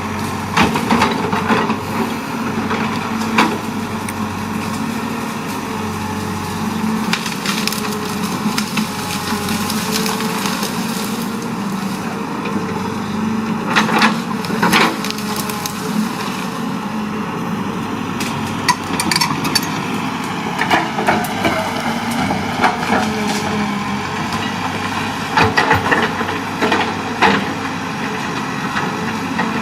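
Excavator's diesel engine running steadily under load while wood and brush crack and splinter, with irregular sharp snaps every few seconds, the loudest about 14 s in.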